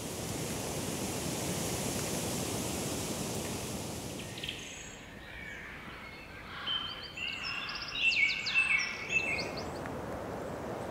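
A steady rushing hiss that stops about halfway through, followed by a songbird singing a quick run of chirps and trills in the second half over a low, steady outdoor background.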